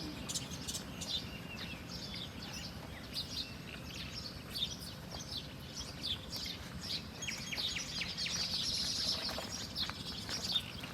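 Small birds chirping: many short, high chirps, with a denser burst of chatter about eight seconds in, over a steady low background rumble.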